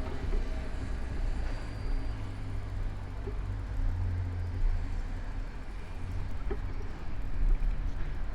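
City street sound heard from a moving bicycle: a steady low rumble of wind and road noise on the bike-mounted camera's microphone, with motor traffic.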